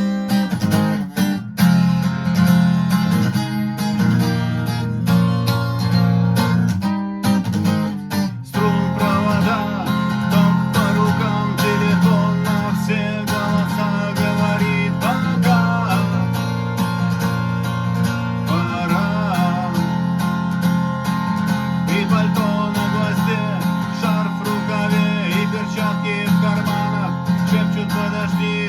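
Guitar strumming chords as the instrumental intro of a song, with a brief break about seven seconds in; after it a higher melody line plays over the strumming.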